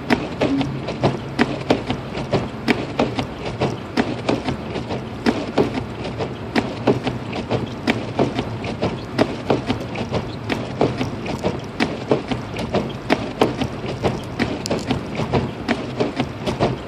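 Car cabin driving through a snowstorm: a steady low drone from the moving car, with a dense run of sharp, irregular ticks, several a second.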